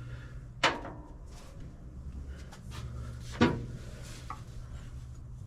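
A wrench working the distributor hold-down bolt and clamp: two sharp metal knocks about three seconds apart, with smaller clicks and rubbing between them. A steady low hum runs underneath.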